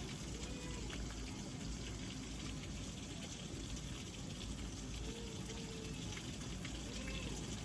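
Very heavy rain pouring down in a steady, even rush of water.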